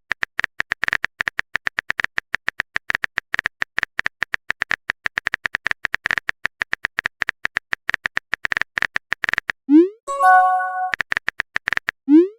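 Rapid, irregular keyboard typing clicks. Near the end they give way to a message alert: a quick rising swoop, then a short bright chime. A second swoop follows right at the end.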